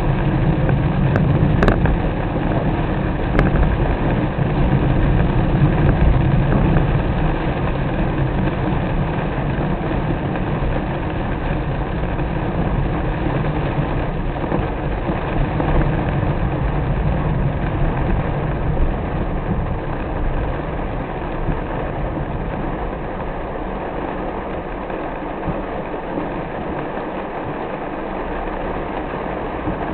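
Steady noise of a car driving in the rain: engine and road noise, with the low rumble easing off in the last third.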